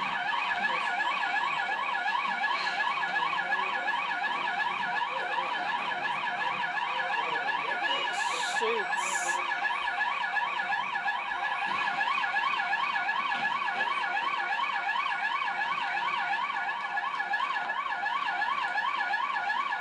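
An electronic siren warbling rapidly and evenly up and down, about three sweeps a second, without a break. Two short high hisses come about 8 and 9 seconds in.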